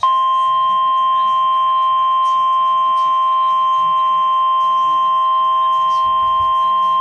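NOAA Weather Radio warning alarm tone: one loud, steady, high-pitched tone that starts abruptly and holds without change. It signals that an emergency warning is about to be read.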